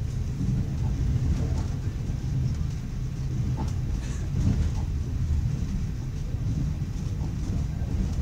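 Steady low rumble of a moving passenger train heard from inside the carriage, its wheels running on the rails, with a few faint clicks about halfway through.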